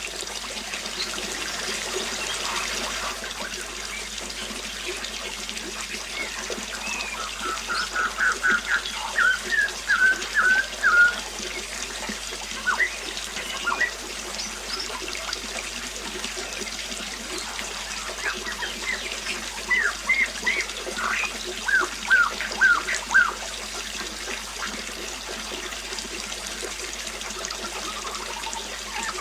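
Water trickling steadily, with a bird calling in two runs of quick, repeated chirps, one about seven seconds in and another around eighteen seconds in.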